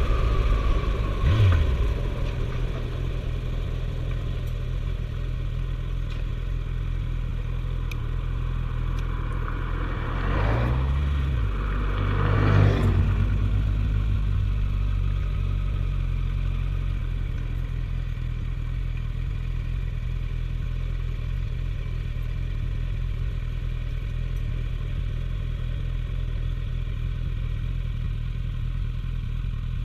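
Suzuki GSF1250S Bandit's inline-four engine running steadily while riding. There is a brief swell with a rise and fall in pitch about ten to thirteen seconds in.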